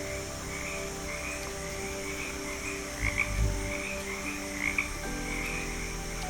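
A chorus of frogs calling, with short chirping calls repeating about twice a second over a steady droning trill. A brief low thump comes about three seconds in.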